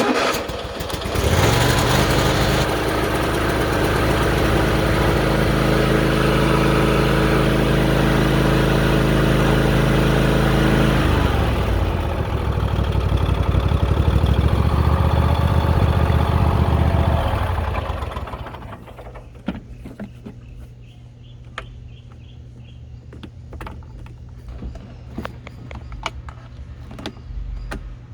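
Husqvarna LGT2554 lawn tractor engine cranking, catching about a second in and running steadily. Around eleven seconds the engine note changes and it runs on rougher until it shuts off at about eighteen seconds. Scattered light clicks and rattles follow.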